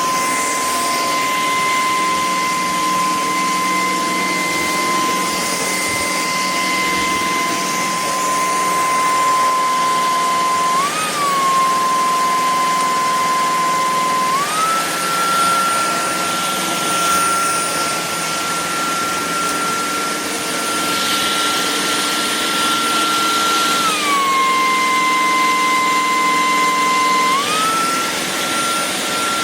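Shark PowerPro cordless stick vacuum running: a steady motor whine over rushing air. Its pitch steps up about halfway through, drops back a few seconds later and rises again near the end.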